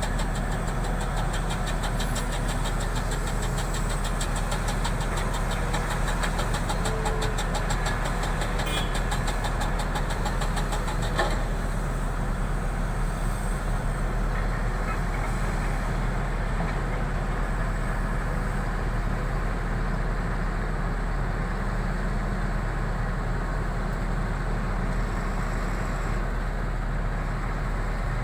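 An engine running steadily, with a fast fine ticking that fades about eleven seconds in.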